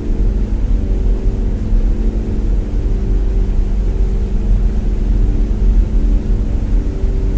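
Quadcopter drone's propellers humming steadily at several fixed pitches over a heavy low rumble.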